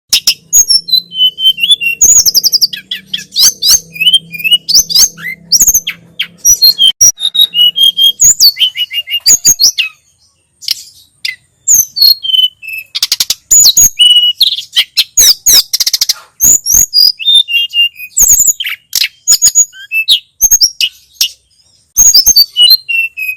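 Tledekan gunung (sulingan gunung) songbird singing a fast, varied stream of chirps, trills and sweeping whistled notes, with a brief pause about ten seconds in.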